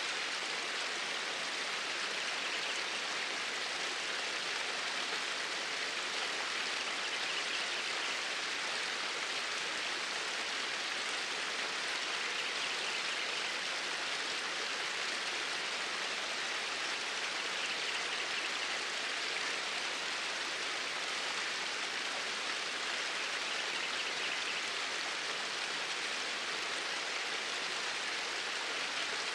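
Water flowing in a steady, even rush.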